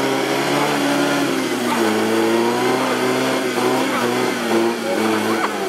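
1930 Riley 9 tourer's four-cylinder engine pulling under load as the car climbs through mud. The engine note is steady, drops in pitch about a second and a half in, then wavers.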